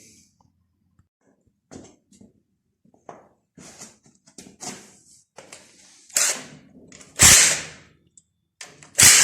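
Hand tools working on metal engine parts: scattered light clicks and clanks, then a few louder sharp metallic knocks, the loudest about seven and nine seconds in.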